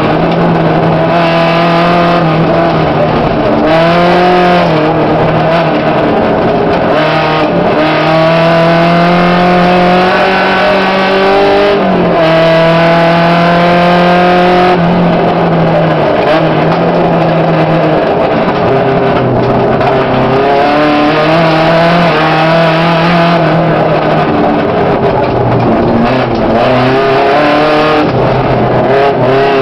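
Volkswagen Gol rally car's engine heard from inside the cabin, pulling hard with its pitch climbing under acceleration and dropping sharply at each gear change or lift, several times over, above a steady rush of tyre and road noise on the dirt road.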